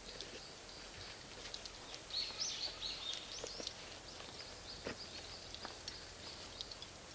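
Campfire of firewood and Iwate cut charcoal crackling, with scattered sharp pops. A bird sings a short run of chirps from about two to four seconds in.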